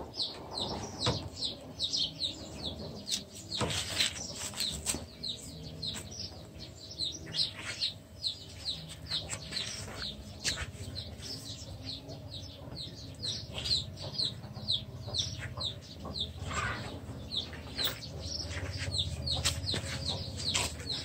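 Birds chirping without a break: quick, high notes that slide downward, several a second, with a few sharper clicks among them.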